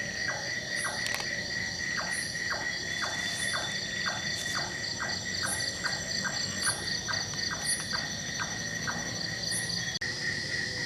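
Night insect chorus: a steady high trill with a faster pulsing trill above it and sharp high chirps about once a second, while a short lower call repeats roughly twice a second. The sound drops out briefly near the end.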